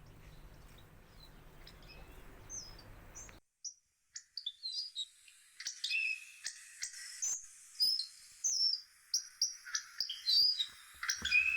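Hawfinch chirping: a few faint high chirps over a low background rumble, then, after a brief break, a busy run of short, sharp chirps and twitters, many overlapping.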